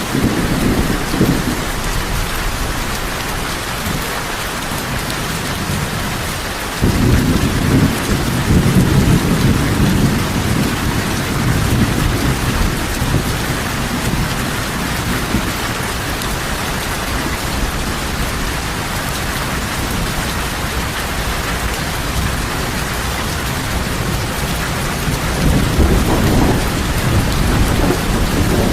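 Heavy rain falling steadily, with low rolling rumbles of thunder under it: one starts abruptly about seven seconds in and rolls for several seconds, and another swells near the end.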